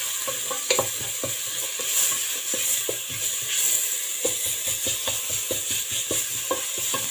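Ginger-garlic paste with cumin seeds and green chilli sizzling in hot oil, being fried until its raw smell goes. A wooden spatula scrapes and taps against the bottom of the pot in quick, irregular strokes as it is stirred.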